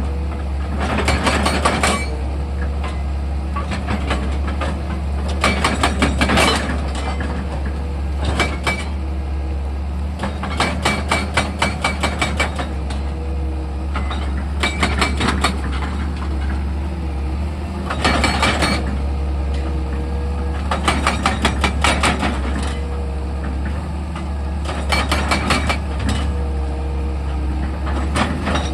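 Excavator's diesel engine running steadily with a low hum, broken every few seconds by bursts of rapid, evenly spaced hammering from its percussive drill, each burst lasting about a second.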